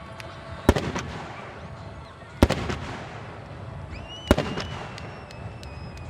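Large aerial fireworks shells bursting: three loud booms about two seconds apart, each followed by a lingering rumble and echo. After the third boom a high whistle sounds for about two seconds, slowly falling in pitch.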